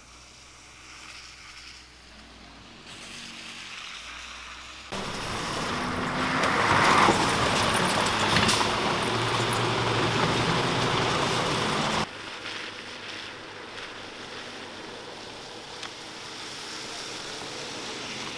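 Road traffic noise, vehicles passing on a snowy street. A much louder stretch of noise starts suddenly about five seconds in and cuts off just as suddenly about seven seconds later, with quieter traffic on either side.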